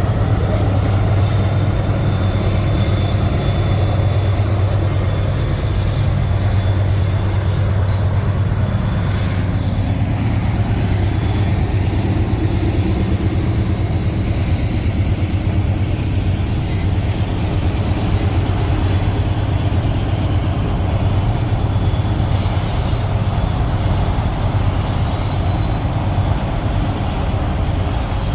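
CSX manifest freight train rolling past slowly, its cars making a steady, unbroken low rumble. Highway traffic noise is mixed in.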